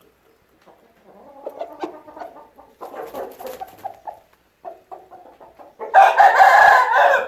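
Chickens clucking and chattering softly, then an Aseel rooster crows loudly about six seconds in, a single crow lasting about a second and a half.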